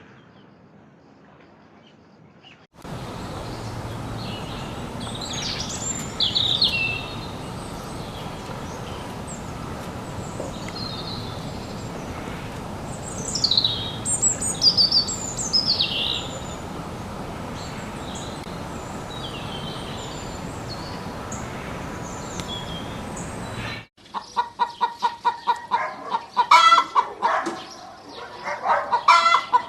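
High, short, falling bird chirps over a steady hiss. A cut about 24 seconds in brings a domestic chicken clucking in quick repeated calls.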